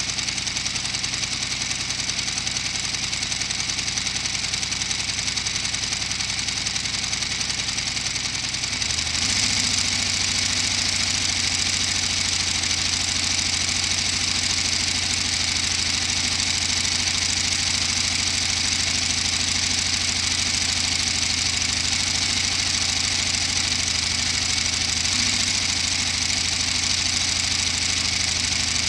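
Inline-12 two-stroke diesel engine running steadily at idle, then stepping up to a higher, slightly louder, steady speed about nine seconds in.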